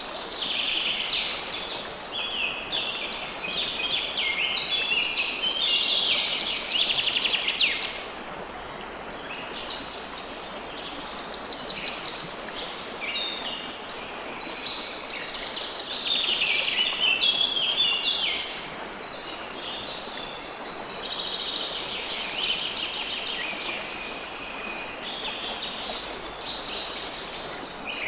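River water flowing steadily under birds singing: long phrases of rapid, high chirping trills, several seconds each, with short gaps between them.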